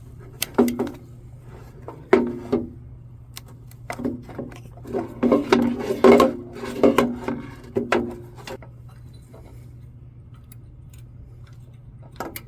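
Metal clinks and knocks of hand tools and small-engine parts being handled, a run of sharp clinks with brief ringing through the first eight seconds or so, then only a few light ticks. A steady low hum runs underneath.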